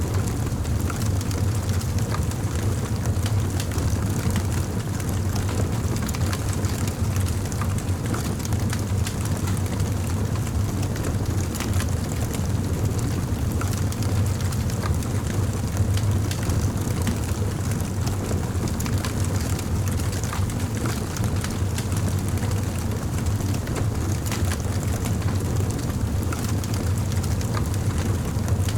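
Campfire burning: wood crackling with frequent small, irregular pops over a steady low rumble.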